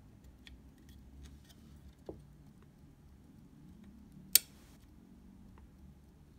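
Faint, irregular small ticks and clicks from the Leica II D's cloth focal-plane shutter being wound back slowly by hand. One sharp click stands out about four seconds in.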